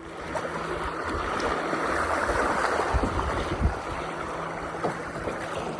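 Creek water rushing and splashing around a kayak, with many small splashes in a continuous wash, loudest in the middle.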